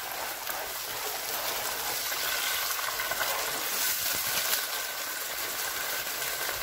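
Chopped tomatoes and green chillies sizzling in hot oil with fried onions in a frying pan, a steady hiss, while a spatula stirs them.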